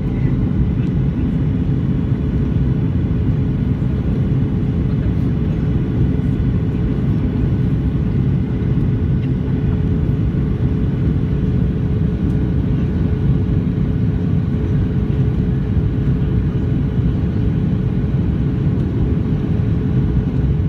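Steady cabin noise of a jet airliner descending to land: a constant low rumble of engines and rushing air, with a faint steady hum riding on top.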